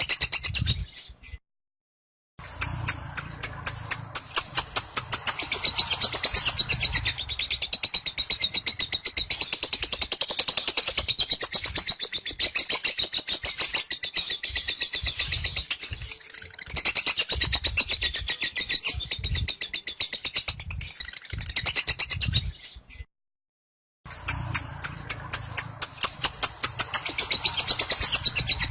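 Lovebird singing its long 'ngekek' song: a continuous, rapid chattering trill of many quick repeated high notes. It breaks off twice for under a second, shortly after the start and near the end.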